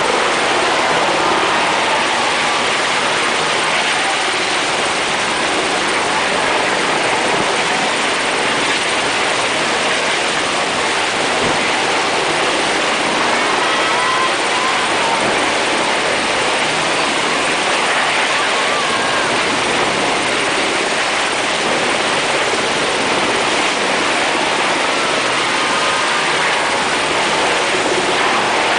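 Military Black Hawk helicopters flying over: a steady, loud rush of rotor and turbine noise.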